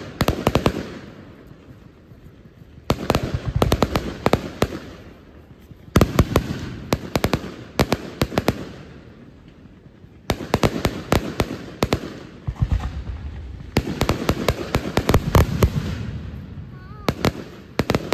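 Fireworks going off in volleys of rapid, sharp cracks, a new volley about every three to four seconds, each one fading out after a second or two.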